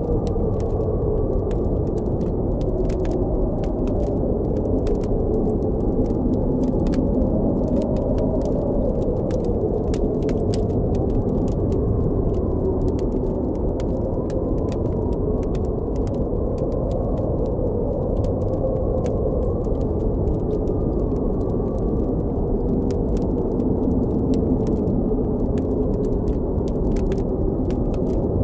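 Blizzard wind blowing in a steady low rush with a hollow tone that slowly rises and falls, over the crackle of a campfire: many small sharp pops throughout.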